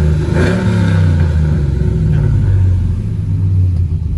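Cammed 5.3-litre V8 exhaust through a Carven R-series muffler: the engine is revved briefly, climbing and falling in pitch within the first second or so, then settles to a steady low rumble.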